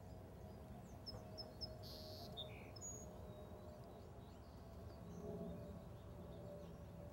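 Quiet outdoor ambience with faint, short bird chirps: a quick run of three about a second in, then a few scattered others, over a faint steady hum.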